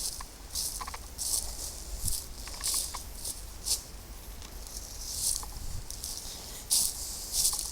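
Footsteps crunching and rustling through dry leaf litter and undergrowth, an irregular step every second or so.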